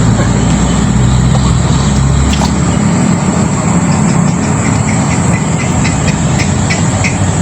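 Steady loud low rumbling noise with a thin high whine held above it; from about halfway in, a run of faint quick ticks joins it.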